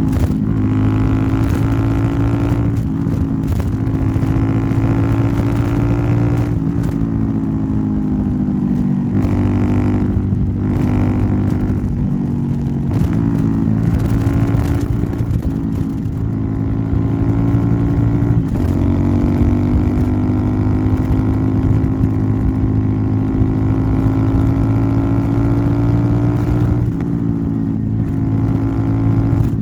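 Royal Enfield Interceptor 650's parallel-twin engine running through an aftermarket Nuke exhaust while riding. The engine note climbs steadily, then drops back with a brief break several times as the rider shifts up or rolls off.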